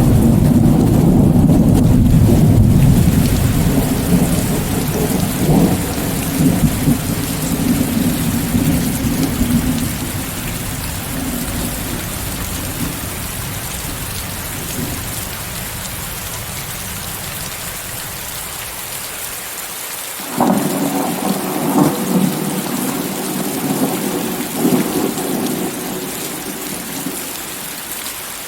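Steady rain with thunder: a long low rumble fading away over the first ten seconds or so, then a sudden new thunderclap about two-thirds of the way through that rumbles on for several seconds before dying down.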